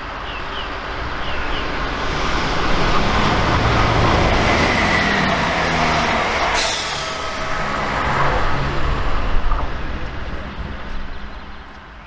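Chiltern Railways diesel multiple unit running through the station without stopping. The drone of its underfloor diesel engines and the noise of its wheels on the rails build up as it approaches, stay loud as it passes with a sharp crack about halfway, then fade as it goes away.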